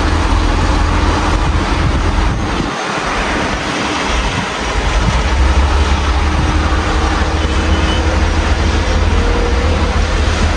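Steady rain falling outside an open window, an even hiss, under a deep low rumble of city traffic with faint engine tones passing in the street.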